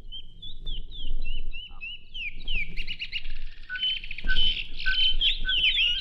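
Birds chirping in quick, short, repeated notes: a single thin run of chirps at first, then more birds joining about two seconds in until the chirps overlap densely. These are the woodland birds placed in the story as a sound effect.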